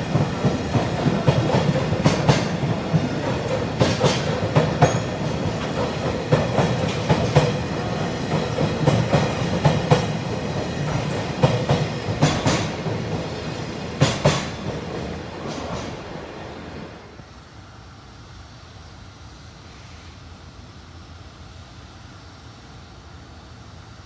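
Freight train rolling past, its wheels clacking over rail joints in repeated pairs over a steady rumble. About seventeen seconds in the train has passed and the sound drops to a faint steady hiss.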